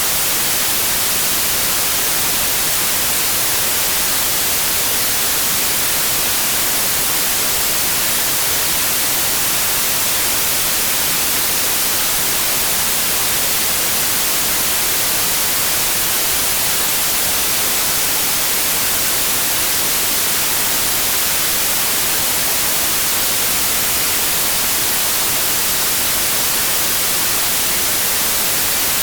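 Steady white noise: an even, unbroken hiss, strongest in the high range, played continuously to lull a colicky baby to sleep.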